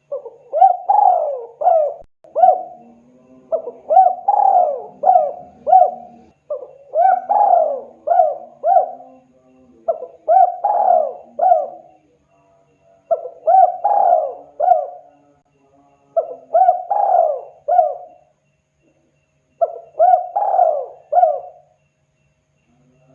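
Spotted dove (tekukur) cooing: about seven phrases of a few quick notes each, separated by short pauses.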